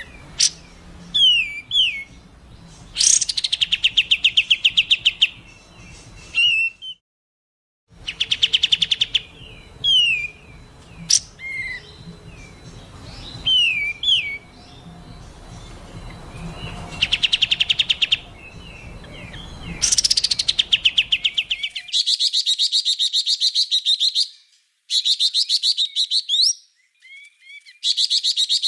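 Recorded songbird calls spliced together: short, sharp whistled notes sweeping up and down, alternating with fast, harsh rattling trills lasting one to two seconds each. The sound drops out for about a second around seven seconds in, and the last several seconds come through thin, with the low end cut off.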